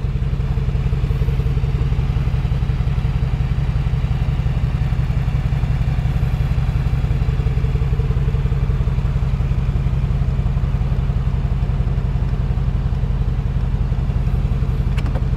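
Mercedes-AMG 4.0-litre twin-turbocharged V8 idling steadily, with two sharp clicks near the end.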